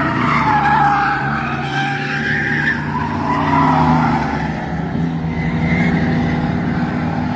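Bomber-class stock cars racing, their engines running hard, with tyres squealing through the turns.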